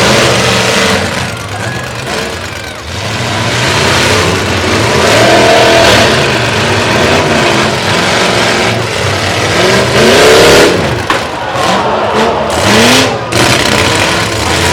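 Several demolition-derby trucks' engines revving hard and unevenly, their pitches rising and falling over one another, loudest about ten seconds in.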